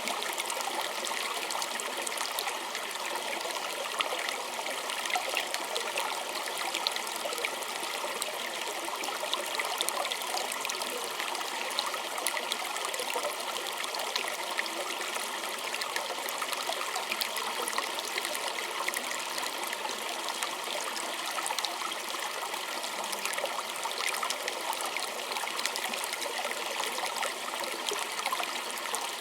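A small stream trickling and burbling steadily, a continuous wash of water sound with many small splashes.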